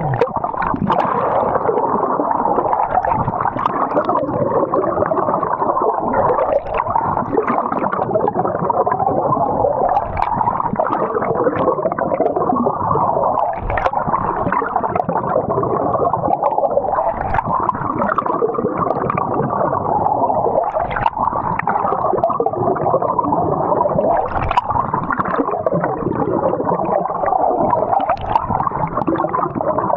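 Water gurgling and sloshing continuously, muffled and without a steady rhythm.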